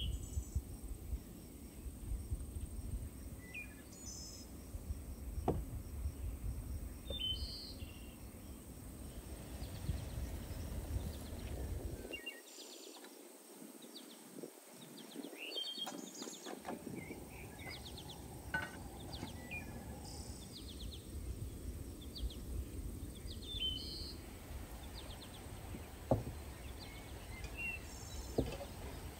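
Outdoor meadow ambience: scattered short bird chirps over a low rumble, with a faint steady high insect buzz and a few light clicks.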